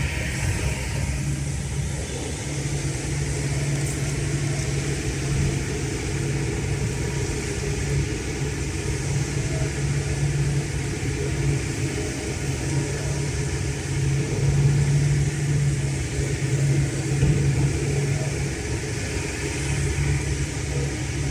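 Hino J05E-TG four-cylinder turbodiesel of a Kobelco SK210LC excavator running steadily, with slight swells in level.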